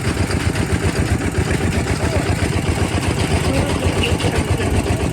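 Kubota RT 140 DI walking tractor's single-cylinder diesel engine running steadily, with a fast even chugging beat.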